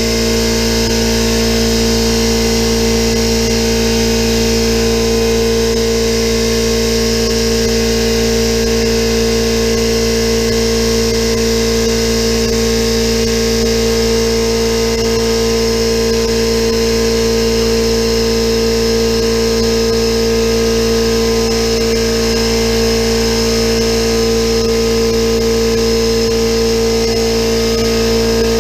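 Electric air compressor pumps running steadily under load, a loud, even hum with a steady pitched drone, as the tanks fill toward cut-off pressure.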